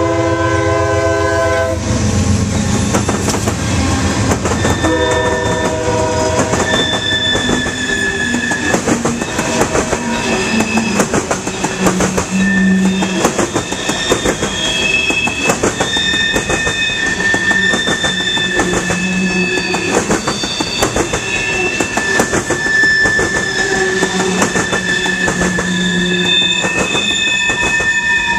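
A locomotive's air horn sounds a chord that cuts off about two seconds in, then sounds again from about five to seven seconds in. After that the train rolls past with rapid clickety-clack of wheels over the rail joints and high, steady squealing of steel wheels on the rails.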